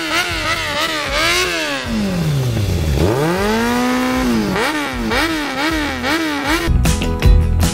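Motorcycle engine revving. It gives a run of quick throttle blips, then the revs sink low, climb back and hold briefly, then more quick blips follow.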